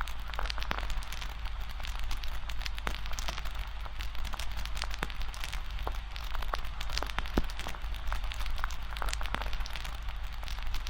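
Campfire crackling: burning wood gives frequent, irregular sharp pops and snaps over a steady hiss, with a steady low rumble underneath.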